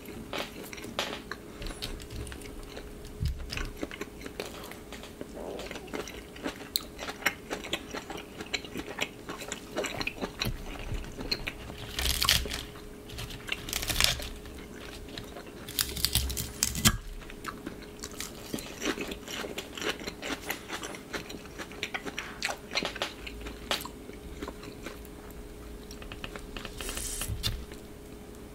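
Close-miked chewing and biting of waffle-iron-pressed chicken breast sausage, with a few louder crunchy bites, likely crisp lettuce. Light fork clicks against the plate come between bites.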